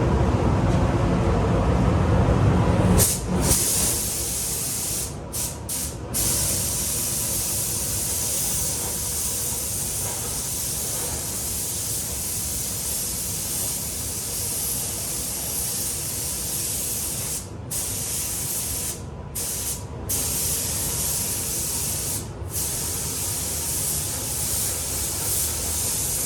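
Compressed-air paint spray gun hissing steadily as clear coat is sprayed, cutting out briefly a few times, around five to six seconds in and again several times later on. A loud low rumble fills the first three seconds before the hiss sets in.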